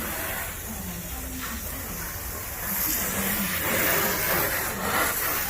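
Pressure washer spraying water onto a boat, a steady hiss that grows louder about three seconds in.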